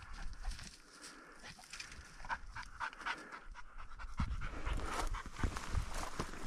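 A hunting dog panting hard while it searches cover for a downed bird, with scattered short rustles.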